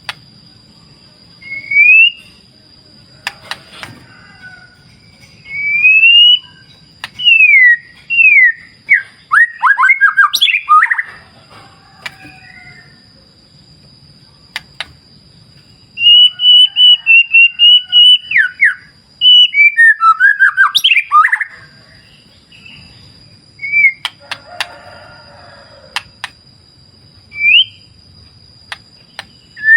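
A songbird singing in separate phrases of clear rising whistles and rapid runs of repeated notes, the busiest stretch a little past the middle. Under it runs a faint low rush of stream water and a steady high thin tone that drops out briefly twice.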